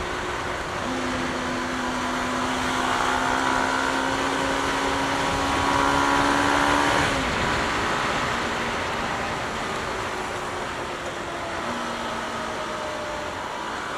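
Single-cylinder engine of a Bajaj Pulsar NS200 running on the move, its pitch climbing slowly for several seconds and then dropping sharply about seven seconds in, over a steady rush of wind and road noise.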